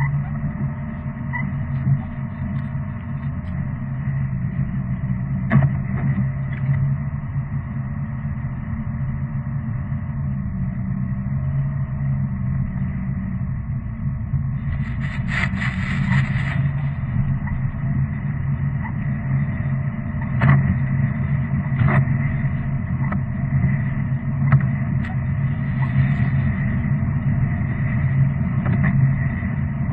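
Engine running with a steady low drone, with scattered light knocks and a brief hissing burst about fifteen seconds in.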